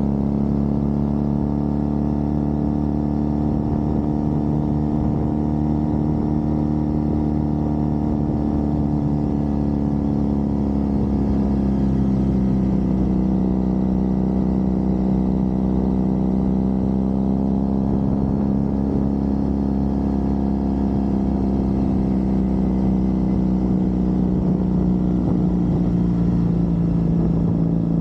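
Triumph Bonneville's parallel-twin engine running steadily under way, its note easing slowly lower over the second half.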